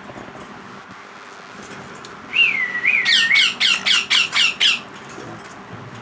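Parrot chick calling: a wavering whistled call about two seconds in, then a quick run of about eight short, rapid calls.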